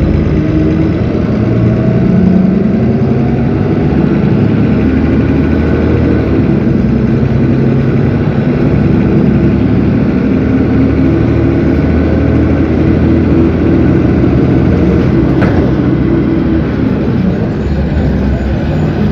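Cummins ISB 6.7 inline-six diesel engine of an Agrale MT17 city bus running. Its pitch rises over the first few seconds, then holds fairly steady.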